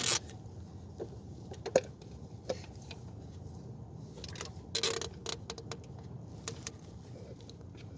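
Scattered light clicks and knocks of hand tools and parts being handled during work on a car, with a sharp click about two seconds in and a short flurry about five seconds in, over a low steady hum.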